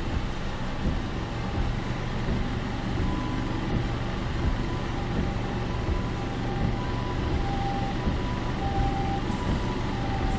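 Steady road and engine noise of a moving car, heard from inside the car.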